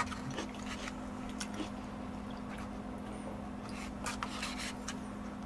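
Faint wet chewing and scattered small mouth clicks from a person eating jjajang noodles, over a steady low hum.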